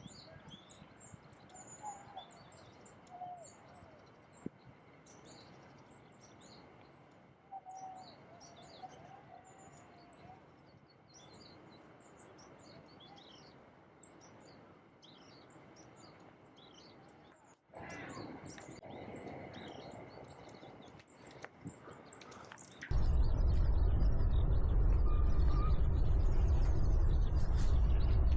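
Small birds chirping with many short, high notes over a quiet background. A loud, low rumbling noise cuts in about five seconds before the end and drowns them out.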